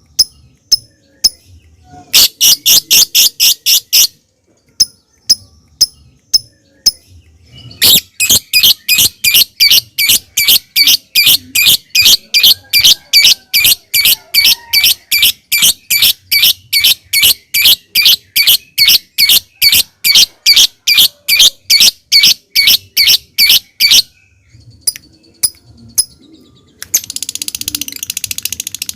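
Lovebird calling: a few scattered sharp high chips, then a long run of sharp repeated 'ticking' chips at about four a second (ngetik), breaking near the end into a continuous chattering trill (ngekek).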